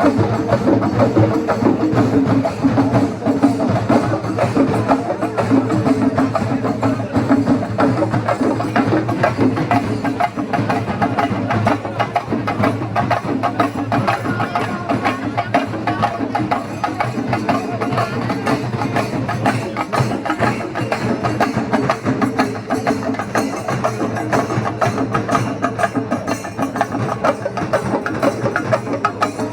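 Fast, dense percussion music of sharp stick strikes, played without a break over a steady low tone.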